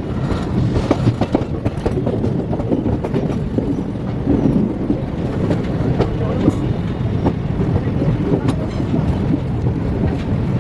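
Passenger train in motion: the coach's steady rumble, with wheels clicking over rail joints.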